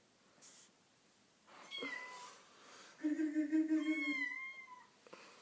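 Domestic cat meowing twice: a short call with a falling pitch about two seconds in, then a longer, louder drawn-out meow that falls away near the end.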